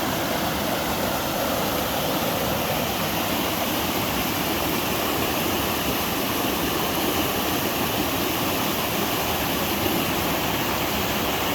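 A small mountain-stream waterfall pouring steadily into a rock pool, making a constant full rush of water.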